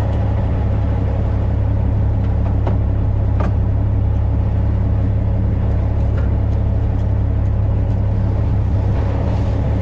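Fishing boat's engine running at a steady speed: a low, even drone.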